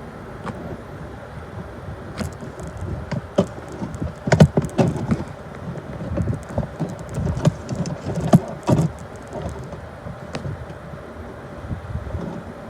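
BNSF intermodal freight train rolling past: a steady rumble of wheels on rail with irregular clanks and knocks from the cars, loudest about four seconds in and again near nine seconds.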